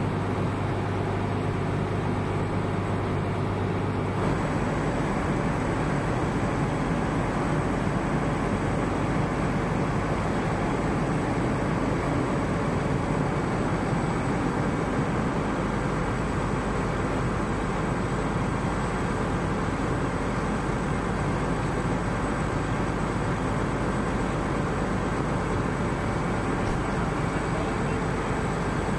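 Steady vehicle engine noise with a constant rumble. A low hum stops about four seconds in, and a faint high whine holds after that.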